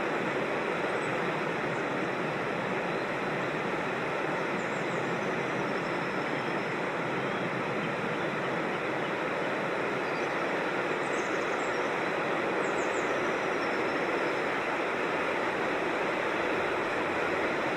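Steady rush of a creek spilling over rocks, with faint high bird chirps twice, about five seconds in and again past ten seconds.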